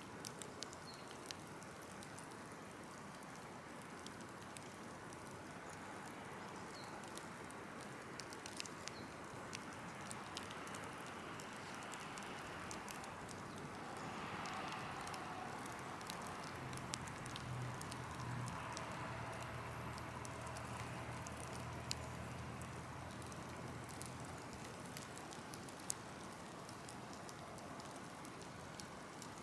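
A burn pile of cut trees and brush crackling, with a steady hiss and scattered sharp pops. A low steady hum comes in for several seconds midway.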